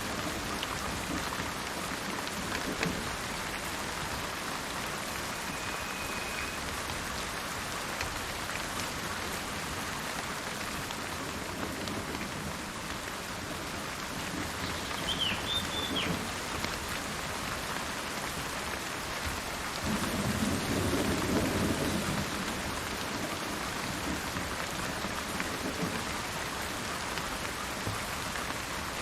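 Steady rain falling, with rolls of thunder rumbling under it, the loudest about two-thirds of the way through. A couple of brief high bird calls sound faintly over the rain, one near a quarter of the way in and one around halfway.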